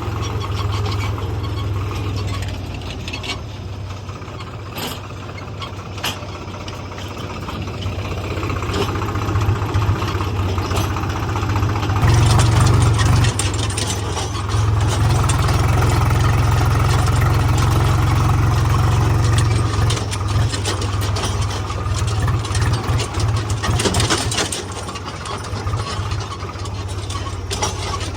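Tractor diesel engine running steadily, louder for several seconds from about twelve seconds in.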